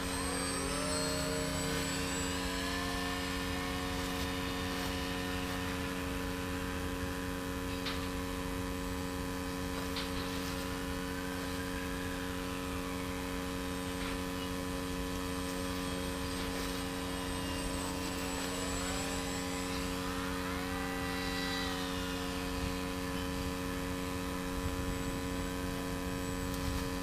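Electric motor and propeller of a radio-controlled model airliner whining in flight, its pitch gliding up and down repeatedly as it passes and changes throttle. A steady hum runs underneath.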